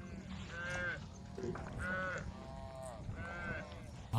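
Cattle calling: three short, fairly faint moos, roughly a second apart.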